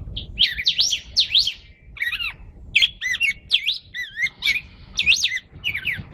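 A pet songbird singing a run of loud, clear whistled phrases, each note sweeping quickly up and down in pitch, with short pauses between phrases.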